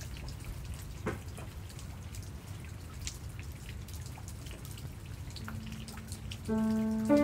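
Rain dripping: scattered single drops tapping over a low steady background. Soft music with held notes fades in near the end.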